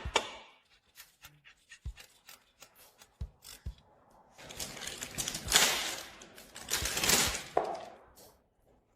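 A few light clicks and taps, then two hissing bursts, each a second or two long, the second stopping about two-thirds of the way in.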